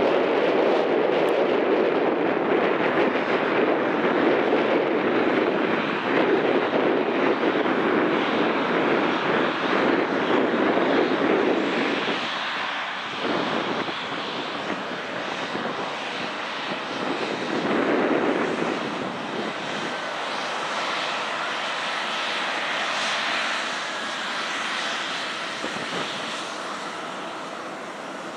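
Airliner engines passing by with a loud, steady rush that fades away after about twelve seconds.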